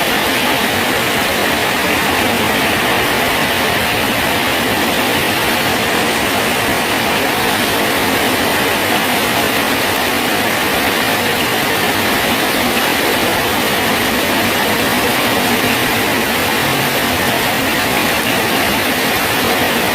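Steady rain falling on a bridge, an even, unbroken hiss.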